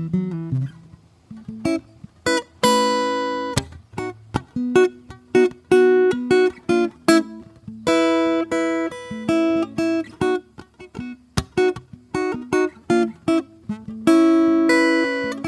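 Acoustic guitar played softly: single plucked notes and strummed chords, several of the chords left to ring out.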